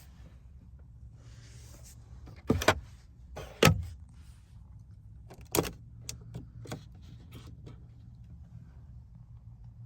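Three sharp knocks, then a few lighter clicks, over a low steady hum.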